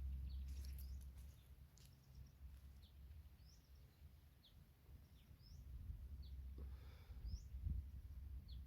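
Small forest birds giving scattered short, high chirps, faint over a low rumble. A few soft thumps come near the end.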